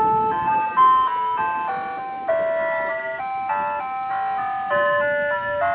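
Ice cream truck's loudspeaker chime playing a tune: a simple melody of clear, stepped electronic notes.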